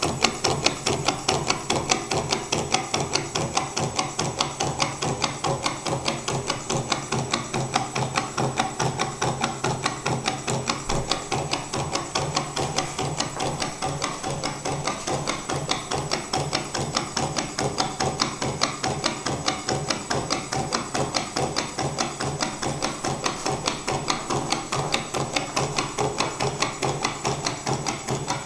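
Gamma-type V-twin Stirling engine running, its pistons, displacer and crank linkage knocking in a fast, even rhythm.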